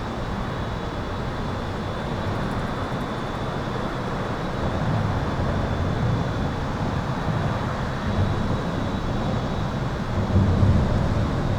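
Highway traffic heard from under an overpass: a steady rush of tyre and engine noise, with louder low rumbles as vehicles pass about five seconds in and again near the end. A thin, steady high-pitched electrical hum runs underneath.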